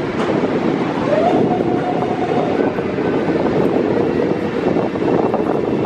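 Bombardier M7 electric multiple-unit train standing at the platform, its equipment giving a loud steady rumble. A short rising whine that then holds steady comes about a second in, around when its doors open.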